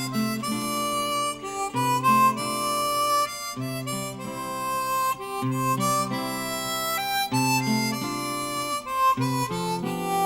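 Harmonica-led music playing a melody over held chords, the notes changing every second or so.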